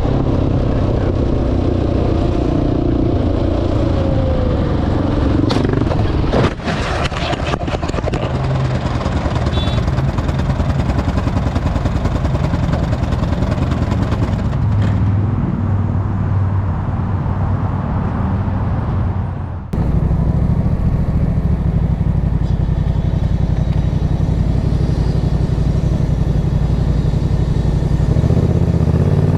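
Motorcycle engine running steadily at speed, heard from the rider's camera with wind and road noise. There is a sharp knock about six seconds in, and the engine sound changes abruptly near twenty seconds in.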